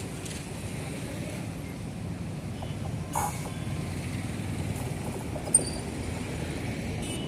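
Goods train running past, a steady low rumble of wheels on rail, with two brief sharp sounds about three and five and a half seconds in.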